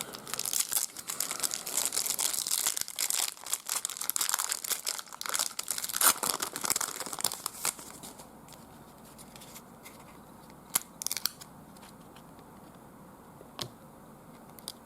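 A trading-card pack wrapper being torn open and crinkled, a dense crackling for about the first seven seconds. It then goes quiet except for a few light clicks from the cards being handled.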